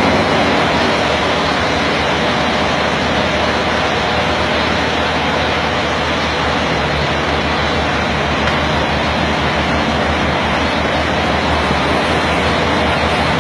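Scania R440 truck's diesel engine running steadily, with a low drone under a constant rush of road and wind noise that does not change.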